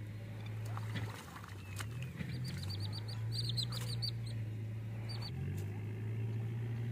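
Birds chirping in quick runs of short, high, falling notes, over a steady low droning hum that shifts pitch a few times.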